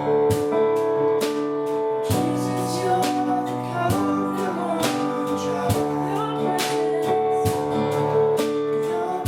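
Gospel worship song: singing over instrumental accompaniment with regular beats.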